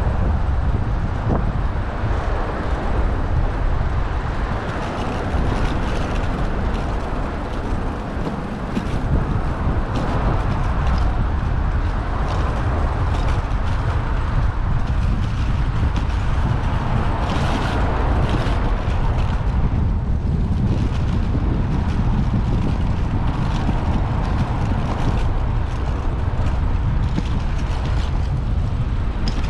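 Steady wind rumble on a bike-mounted action camera's microphone, mixed with road and traffic noise as the bicycle rides along, with scattered faint ticks and rattles.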